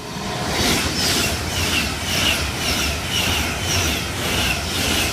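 A Virgin Trains Class 390 Pendolino electric train passing straight through the station at speed. It is a loud rushing rumble with a sharp rhythmic clatter of wheels over the rail joints, about two beats a second.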